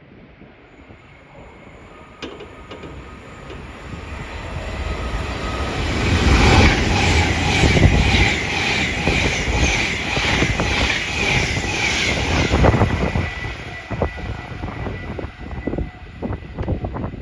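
A train passing through the station: it builds up, goes by close for several seconds and fades away, its wheels clattering rhythmically over the rail joints.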